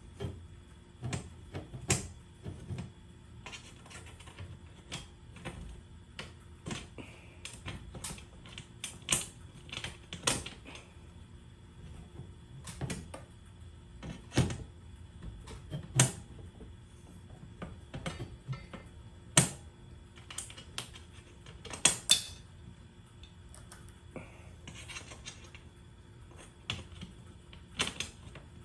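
Irregular sharp clicks and knocks of tools and metal hardware being handled, about one or two a second, a few of them louder taps with a short metallic ring.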